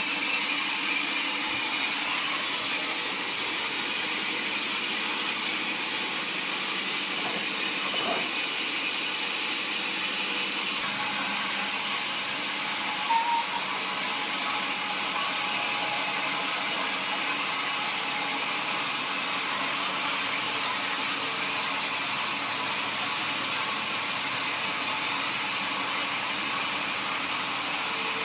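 Sawmill saw machinery running with a steady, even hiss, with a brief louder chirp about halfway through.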